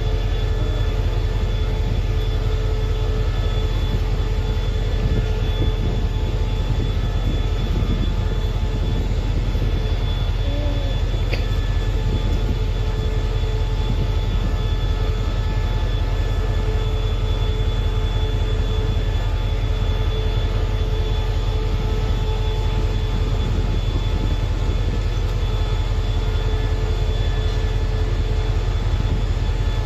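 SRT QSY-class diesel-electric locomotive idling steadily while its train stands at the platform: a deep, constant engine rumble with steady whining tones over it.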